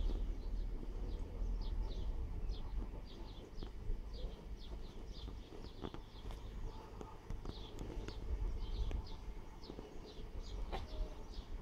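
A small bird chirping repeatedly, short high falling notes a few each second, over a low fluctuating rumble.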